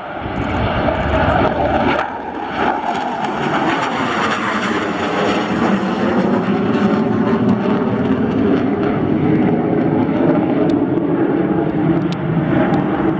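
Panavia Tornado GR4's twin RB199 jet engines on take-off, a loud, continuous roar. It swells sharply in the first second and then holds loud.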